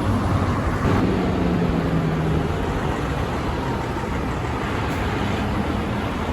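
Heavy truck traffic going by: steady engine and tyre noise, with a low engine hum from about a second in to two and a half seconds.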